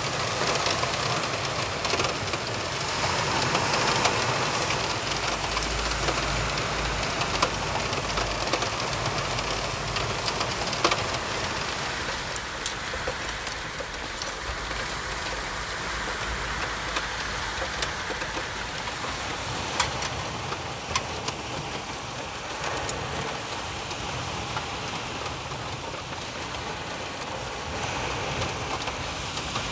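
Steady pouring rain, an even hiss with a few light clicks scattered through it.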